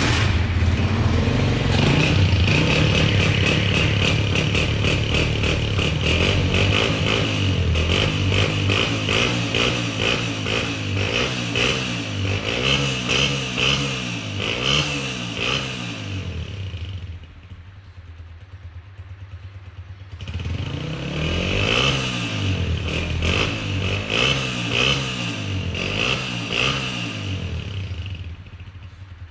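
Honda 125 single-cylinder four-stroke motorcycle engine revved through its exhaust silencer in quick repeated blips, the pitch rising and falling over and over. It drops to a steady idle about 17 seconds in, is blipped again from about 20 seconds, and settles back to idle near the end.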